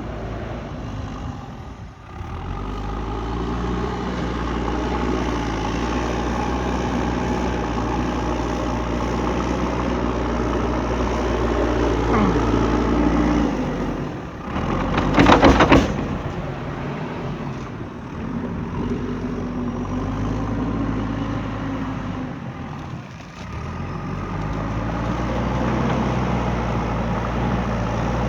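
Diesel engine of a JCB 3DX backhoe loader running under changing load, its pitch and level rising and falling as the machine works, with a loud brief rattle midway.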